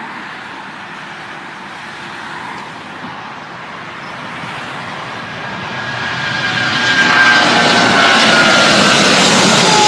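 Boeing 777-200ER's Rolls-Royce Trent 800 turbofans at takeoff power, growing louder as the jet approaches and then very loud, with an engine whine that falls in pitch as it passes near the end.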